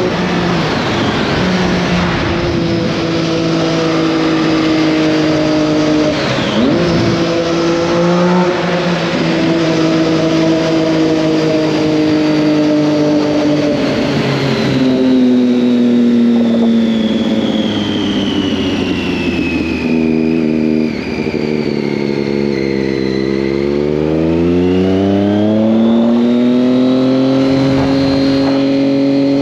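Triumph Daytona 675's three-cylinder engine under way: its note sinks slowly through most of the stretch with a few quick jumps on gear changes, then climbs steeply about three quarters of the way in as the bike accelerates, and holds high near the end.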